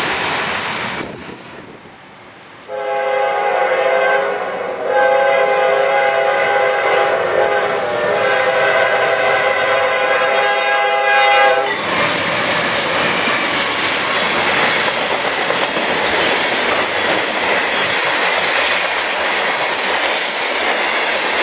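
A diesel freight locomotive's multi-chime air horn sounds a blast, breaks off briefly, then holds a long blast of about seven seconds. The train then passes close by at speed, its wheels and cars making a steady rushing clatter.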